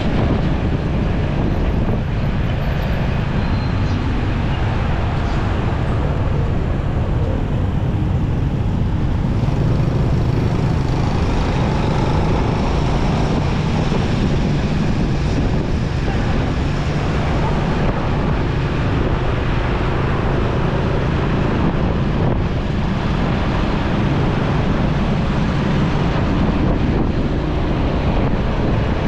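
Motorcycle running steadily while riding through traffic, with wind rushing over the microphone and the rumble of surrounding road traffic.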